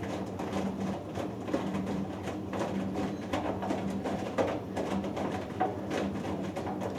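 Hoover Dynamic Next DXA610IW3 front-loading washing machine in its wash phase: the drum motor hums as it turns the drum, and the wet load tumbles with irregular soft thuds and sloshing water.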